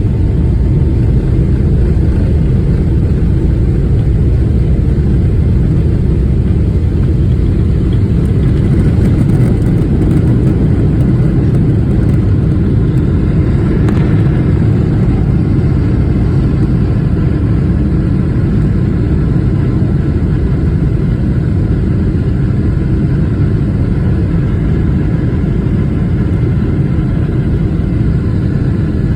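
Boeing 777-300ER's GE90-115B turbofans at high power during takeoff, a steady low rumble of engine and airflow noise.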